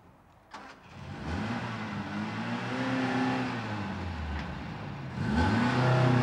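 Car engine pulling away and accelerating; its pitch climbs, eases off and climbs again about five seconds in, getting louder.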